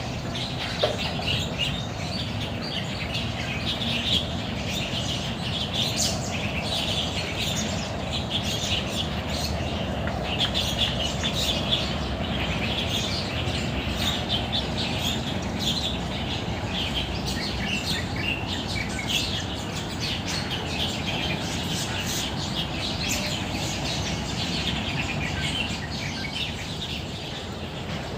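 Many songbirds chirping and calling at once in the trees, a dense, continuous chorus of short overlapping chirps over a steady low background rumble.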